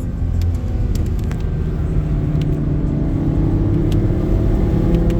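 Car engine running steadily under a heavy haze of tyre and rain noise on a wet road, its note rising slowly over the last few seconds, with scattered sharp ticks.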